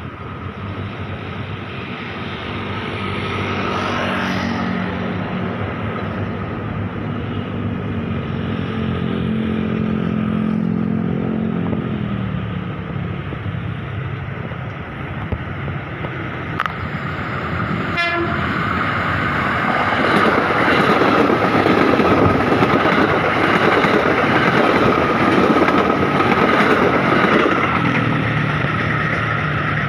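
A train passing close by. A pitched tone swells and then drops in pitch at about twelve seconds, and from about twenty seconds a louder rumble of the carriages goes by with a steady high whine above it.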